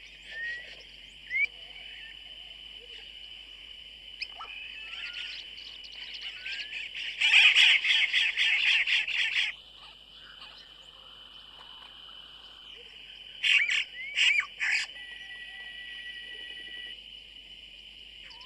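Birds calling at a nesting colony: scattered short rising chirps, then two loud bursts of rapid, harsh chattering calls, over a steady high-pitched background chorus.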